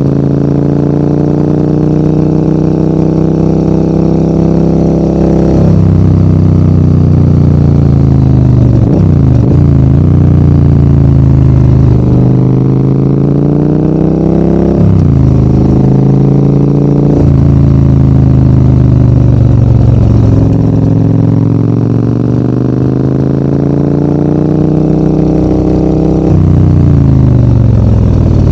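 Adventure motorcycle engine under way uphill, the revs climbing and dropping every few seconds as the rider opens and closes the throttle and changes gear.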